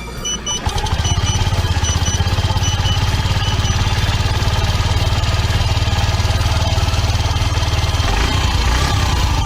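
Vehicle engine starting up just under a second in, then idling steadily. Short high beeps sound a few times during the first few seconds.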